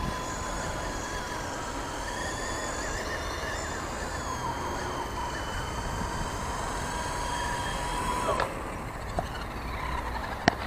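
WLtoys V913 RC helicopter's brushless motor and rotor whining steadily as it is brought in to land, dipping slightly in pitch midway, then cutting off suddenly about eight seconds in as the motor is shut down. Low wind rumble underneath.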